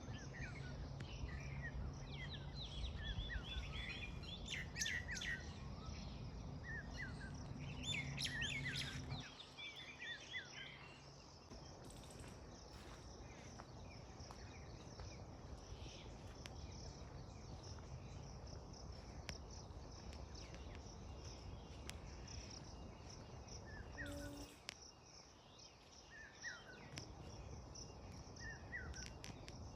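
Birds chirping and calling, a busy run of short chirps in the first ten seconds, then only a few scattered chirps. Underneath is a steady high hiss, and a low hum that fades out about ten seconds in.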